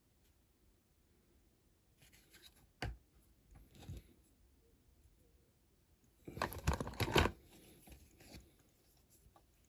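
Small parts handled at a workbench while rivets are refitted to a diecast model car's baseplate: a sharp click about three seconds in, then a short burst of scraping and clicking a little past the middle.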